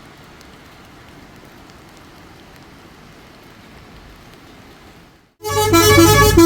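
Steady hiss of falling rain with occasional small drop ticks. About five seconds in it cuts off and loud music with a melody over a bass line begins.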